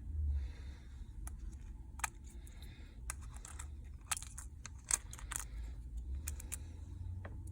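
Irregular small sharp clicks and taps of repair tools and small parts being handled on a disassembled iPhone XR, over a steady low hum.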